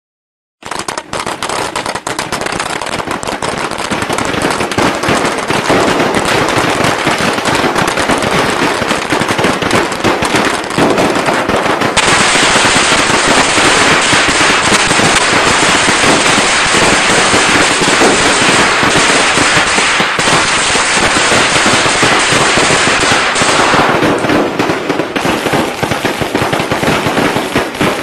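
Strings of Vietnamese Tết firecrackers going off in a continuous, dense crackle of rapid pops, starting about half a second in. About halfway through it turns denser and louder, then eases a little near the end.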